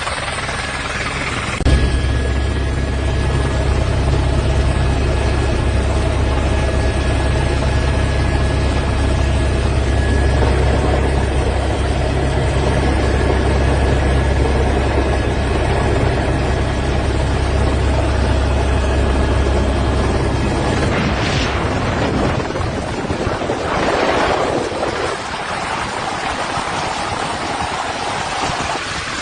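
Helicopter rotor and turbine noise: a loud, steady drone that starts about two seconds in and drops away about three-quarters of the way through, leaving a rushing noise.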